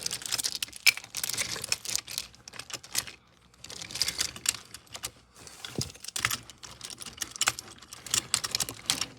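Rapid, irregular clicking and clattering, like small hard objects tapping.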